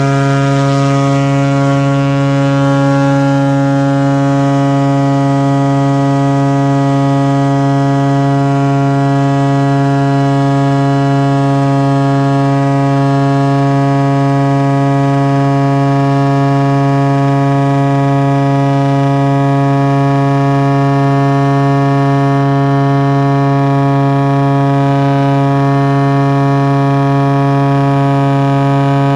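A Cessna 185F floatplane's six-cylinder Continental engine and propeller run at a steady high power setting on departure: a loud, even drone that holds one pitch throughout.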